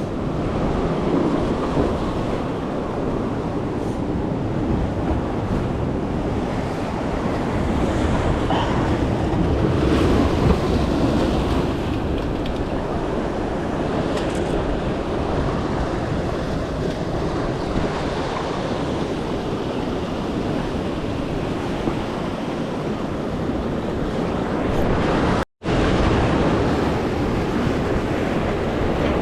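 Steady rush of ocean surf and wind buffeting the microphone, with a split-second dropout about 25 seconds in.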